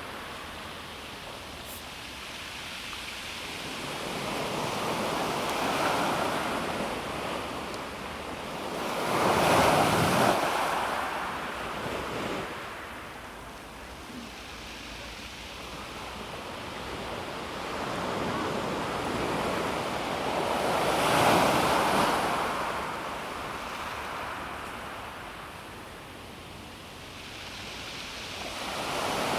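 Calm sea waves breaking and washing over a pebble beach, swelling and fading in slow surges, with the loudest breaks about a third and about two-thirds of the way through.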